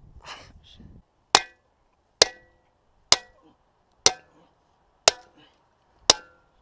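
Hammer striking a metal part of a refrigerator six times at a steady pace, about one blow a second, each blow ringing briefly like struck metal.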